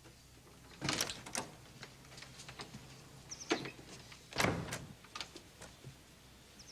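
A series of sharp knocks and clatters with a few short squeaks, the heaviest a thump about four and a half seconds in.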